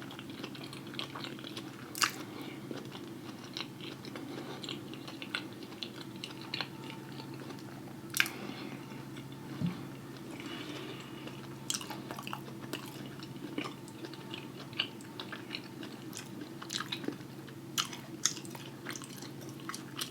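Close-miked mouth sounds of a person chewing and eating a loaded lobster tail: wet smacks and small clicks throughout, with a few sharper clicks, the loudest about two and eight seconds in, over a steady low hum.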